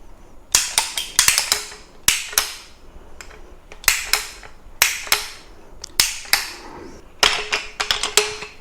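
Ratcheting copper tube bender clacking as its lever is worked stroke by stroke, bending 7/8-inch copper tube toward 90 degrees. Sharp metal clicks come in clusters of two to four, about once a second.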